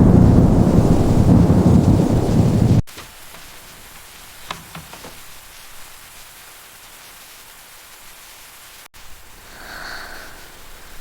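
Thunderstorm: heavy rain with a deep rumble of thunder that cuts off abruptly about three seconds in, leaving a soft, steady hiss of light rain.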